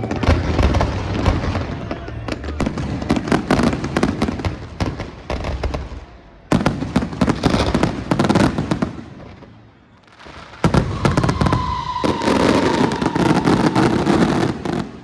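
Aerial fireworks display going off in dense volleys of bangs and crackling, with two sudden louder barrages about six and a half and ten and a half seconds in. A thin whistling tone runs for a couple of seconds in the last barrage.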